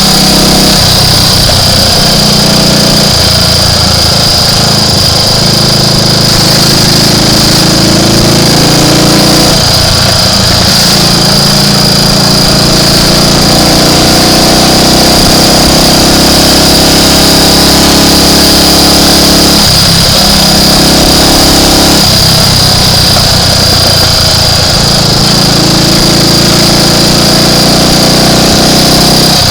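Triumph Tiger Cub's small single-cylinder four-stroke engine running as the motorcycle is ridden, its note breaking and changing pitch several times with throttle and gear changes. The engine has an intermittent misfire that the rider suspects comes from a flooded or dirty carburettor.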